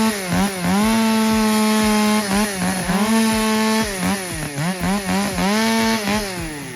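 Two-stroke chainsaw running at full throttle, its high engine note dipping and recovering again and again as it works through wood. There is a quicker run of dips past the middle, and the note falls away near the end.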